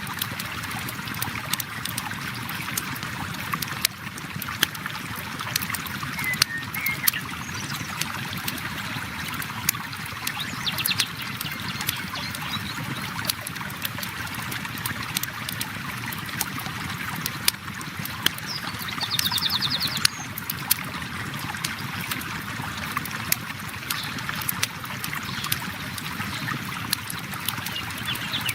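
Steady rush of a flowing river mixed with the crackle and pop of a campfire, sharp snaps scattered throughout. Twice a short, high, rapid trill sounds over it.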